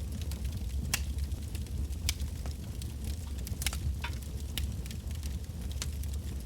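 Wood bonfire burning, its logs crackling with sharp, irregular pops a few times a second over a steady low rumble of the flames.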